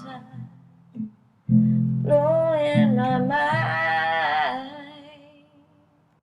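Acoustic guitar and a long wordless sung note with vibrato; the music then dies away into silence.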